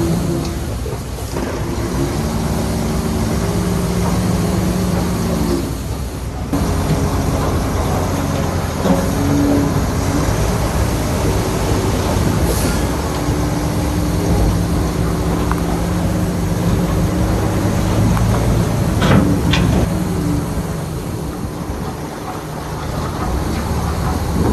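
Shantui bulldozer's diesel engine working under changing load, its pitch rising and falling, with a couple of sharp metallic clanks about three-quarters of the way through.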